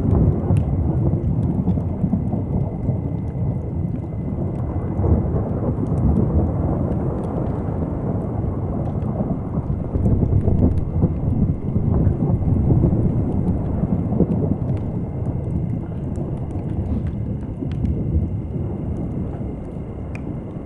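Deep, steady rumble of waves crashing and distant thunder, swelling and easing over several seconds, with a scatter of faint campfire crackles above it.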